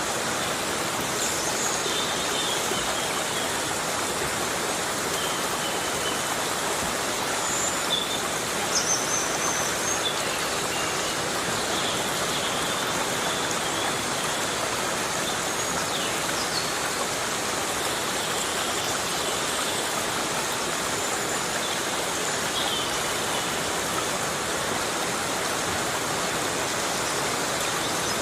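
Heavy rain falling steadily, an even hiss of water with no break. A few faint, short high-pitched chirps come and go over it.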